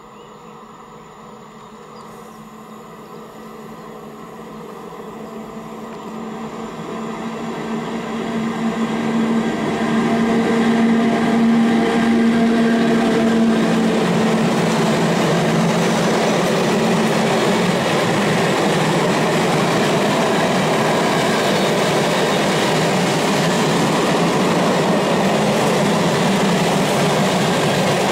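Electric freight train approaching and passing, growing steadily louder over about ten seconds. A steady hum comes from the locomotive as it goes by, followed by the continuous rolling noise of a long rake of empty flat wagons.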